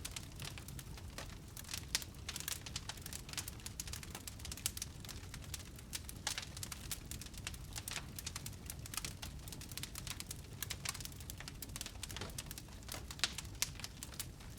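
Wood fire burning in a fireplace: dense, irregular crackles and pops over a low steady rumble of the flames.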